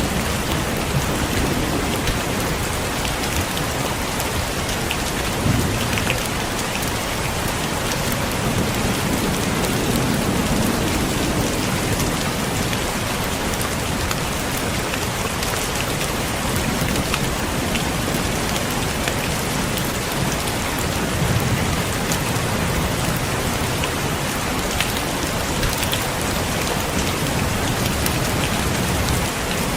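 Heavy rain falling steadily, with a dense patter of drops and low rumbles of distant thunder swelling and fading a few times.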